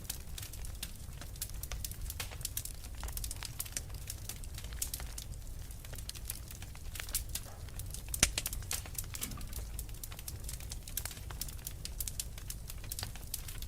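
Wood fire crackling: a dense, irregular run of small snaps and pops over a low rumble, with one sharper pop about eight seconds in.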